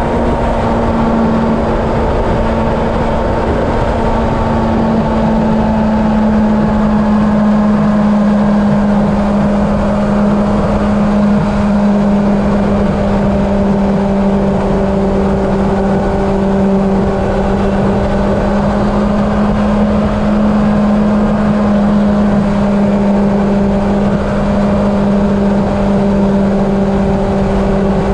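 Honda CB750 inline-four engine running at a steady highway cruise, one held engine note, under heavy wind rush on the camera's microphone.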